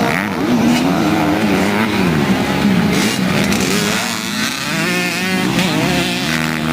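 Several motocross motorcycle engines revving, their pitch rising and falling over one another as the riders work the throttle.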